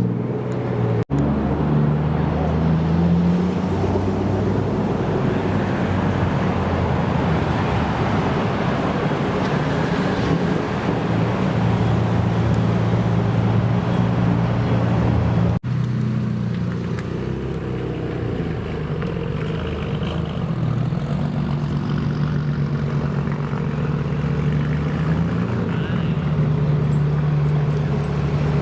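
Car engines idling with a steady low rumble and small shifts in pitch, broken by two brief drop-outs, one about a second in and one about halfway through.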